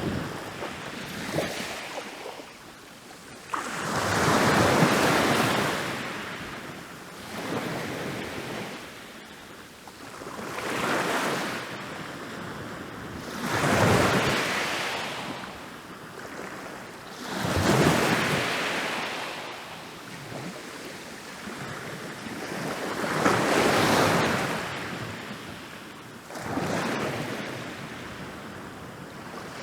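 Ocean waves rolling in and crashing on a beach, one after another: each wave is a rush of surf that swells and fades, about every three to four seconds.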